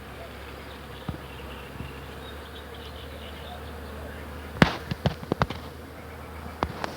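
Bees humming steadily in a crowd, a continuous buzz. A quick run of sharp clicks about four and a half seconds in, with two more near the end, stands out above it.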